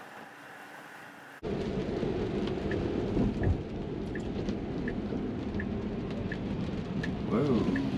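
Rain and road noise inside a Tesla Model 3's cabin, jumping abruptly louder about one and a half seconds in. A turn signal ticks about every 0.7 seconds, and a short sound swoops down in pitch near the end.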